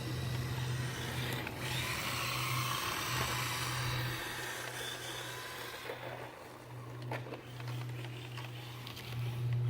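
Electric motor of a 1/14-scale Losi Mini Rally RC car whining, its pitch rising and falling as it speeds up and slows, over a steady hiss and low hum. Scattered light clicks come in during the second half.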